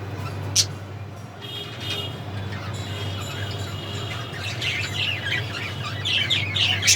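A flock of small Australian parrots chattering with quick, short chirps, growing busier and louder near the end, over a steady low hum. A single sharp click sounds just after the start.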